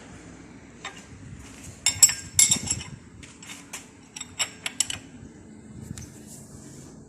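Metal tools clinking and clattering against metal: a quick cluster of loud clinks about two seconds in, then a few scattered sharp clicks over the next few seconds.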